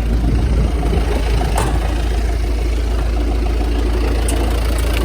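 TCM forklift's diesel engine idling steadily, with a couple of faint clicks about a second and a half in and again near the end.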